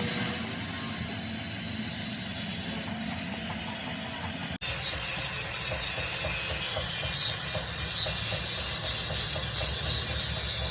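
Workshop machinery running with a steady hiss and low rumble, cut off abruptly about four and a half seconds in and picking up again at once, with faint regular ticking for a few seconds after the cut.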